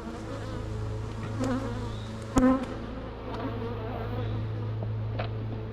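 A swarm of honeybees buzzing steadily around an opened hive, stirred up as honey frames are pulled. A single sharp knock about two and a half seconds in, with a few fainter clicks.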